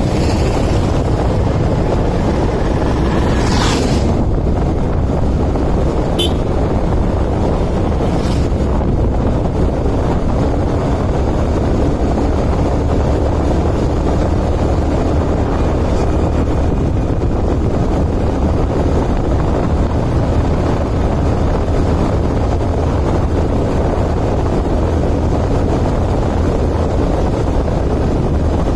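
A vehicle engine running steadily, with wind rushing over the microphone; a few brief hissing streaks stand out about 4, 6 and 8 seconds in.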